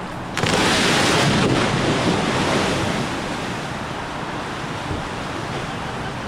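A sudden rush of pooled rainwater pouring off a sagging tarp roof, starting about half a second in, strongest for about a second and then tailing off into a steady hiss.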